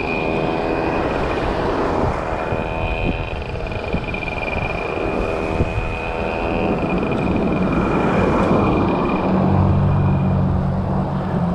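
Wind and road noise on a moving bike-mounted camera as motor vehicles pass. An engine note is heard in the first few seconds, and a heavier, low engine drone is loudest for the last couple of seconds.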